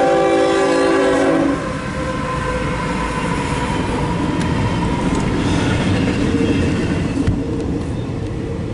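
Freight locomotive air horn sounding a held chord that cuts off about a second and a half in, then the steady rumble and rail noise of a CSX intermodal train passing.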